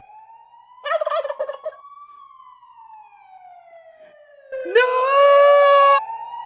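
A turkey gobbling briefly about a second in, over a thin whistle-like tone that slides up and then slowly down. Near the end a loud, drawn-out shout of "No!" cuts off suddenly.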